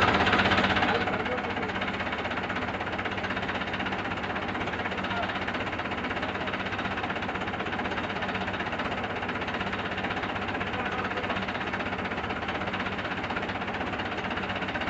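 An engine running steadily at idle with a fast, even knocking pulse, a little louder for the first second.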